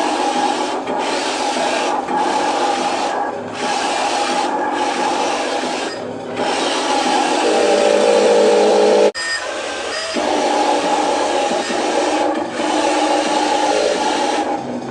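Continuous rasping, scraping mechanical noise with a whine from a radio-controlled truck's small electric motor and gears, dipping briefly every second or so; a steadier higher whine comes in about halfway through and cuts off suddenly.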